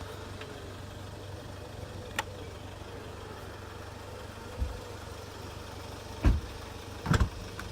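Jaguar F-PACE's 2.0-litre turbo diesel engine idling steadily, with a sharp click about two seconds in and a few dull thumps later on, the loudest about six seconds in.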